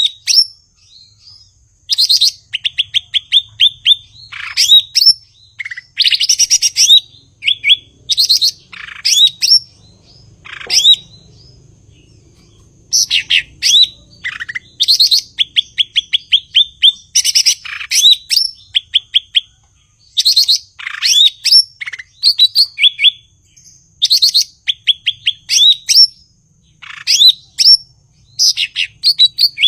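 Cucak ijo (green leafbird) singing in loud, energetic bursts: fast runs of repeated downward-sweeping whistled notes, with short pauses between phrases and a longer break about halfway through.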